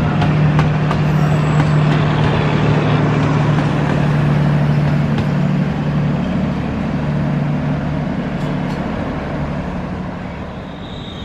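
Passenger train coaches rolling past on the rails, their wheels clacking over rail joints in the first couple of seconds. A steady low hum runs under the rumble, and the whole sound fades near the end as the tail of the train moves away.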